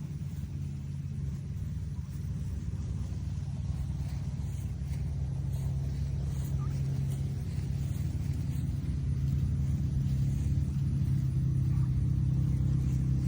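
A steady low motor hum that grows slightly louder over the stretch, with a couple of faint high chirps.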